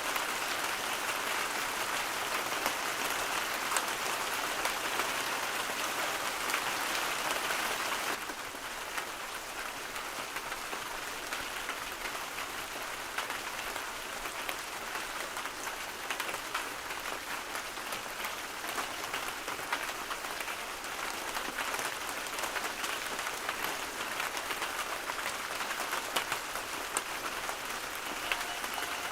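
Steady rain falling, a dense hiss of many fine drops, easing slightly about a quarter of the way through.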